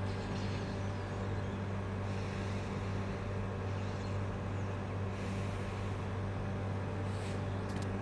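A steady low mechanical hum, unchanging throughout, with a few faint short high sounds near the end.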